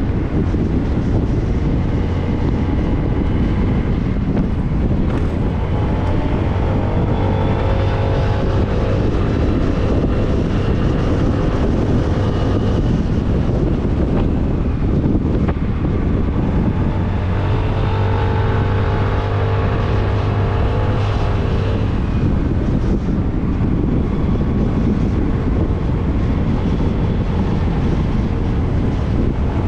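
Motorcycle riding at speed, with wind rushing over the microphone and the engine's steady hum underneath. The engine tone comes through more clearly twice, about a quarter of the way in and again past the middle.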